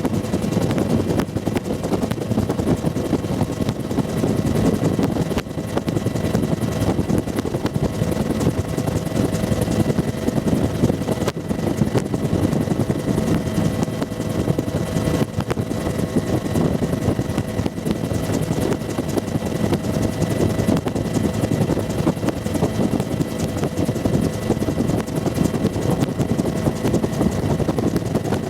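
Bell UH-1 Huey helicopter heard from inside its cabin: the two-blade main rotor and turbine engine run steadily in a dense, low din, with a few faint steady tones above it.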